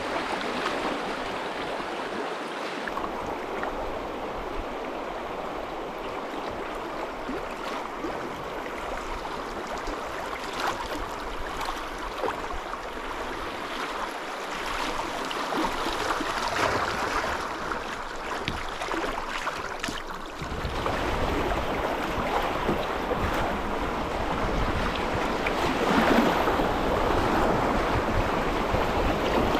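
Flowing river water, a steady rushing wash. About two-thirds of the way in, a low rumble of wind on the microphone joins it.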